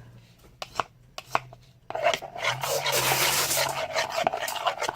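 A few light clicks, then from about two seconds in a spoon stirring and scraping a thick glue-and-moisturizer slime mix in a bowl, in quick repeated strokes.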